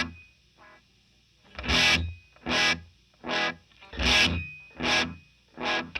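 Electric guitar (a Gretsch White Falcon) played through a Benson Delay pedal with its LFO speed turned up, giving a worn-tape warble to the sound. One chord rings out, then after a pause of about a second and a half a run of chords is struck about every three-quarters of a second, each fading before the next.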